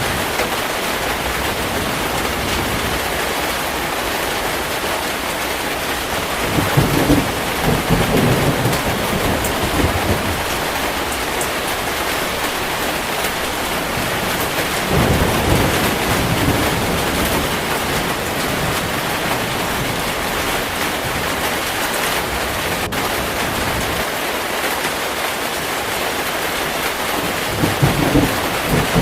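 Steady heavy rain with low rolls of thunder: one about seven seconds in, another around fifteen seconds, and a third near the end.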